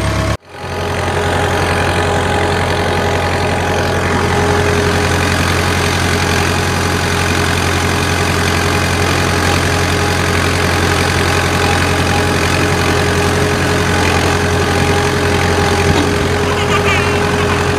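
Farm tractor engine running steadily, a constant low drone after a brief drop-out about half a second in.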